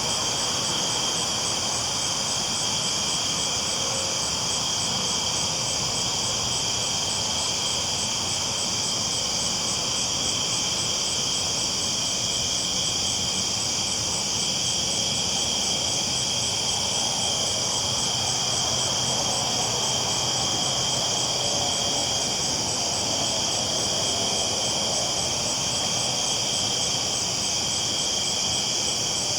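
A dense, steady chorus of night insects such as crickets, with a fast even pulsing trill, over a low, even rumble of a train rolling along the tracks.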